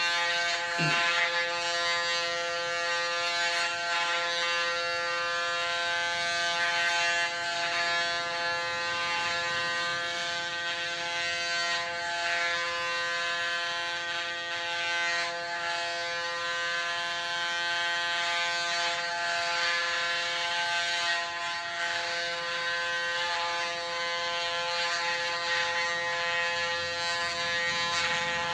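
Electric hair clippers set to 0.8 mm, running continuously with a steady buzzing hum while shaving a head down to a buzz cut.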